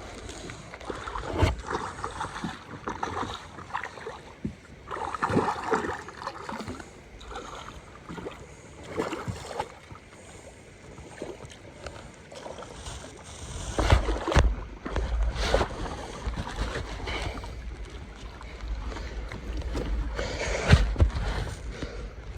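Water splashing and lapping around a sea kayak, with scattered knocks against the hull; a low rumble joins in a little past the middle.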